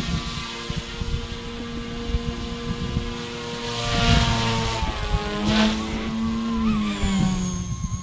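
XK K130 RC helicopter's motors and rotors whining at high headspeed, the pitch dipping and rising as it manoeuvres. Whooshing rushes come about halfway through, over a gusty low rumble.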